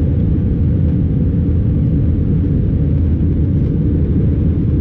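Steady low rumble of engine and airflow noise heard inside the cabin of an Airbus A320 airliner, even and unchanging throughout.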